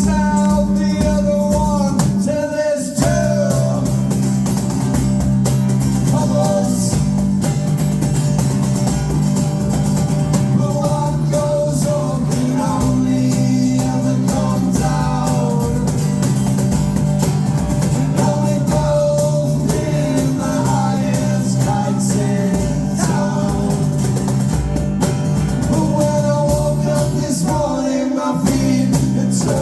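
Live rock band playing a song: guitars and a bass line that moves every second or two, with a sung vocal over the top.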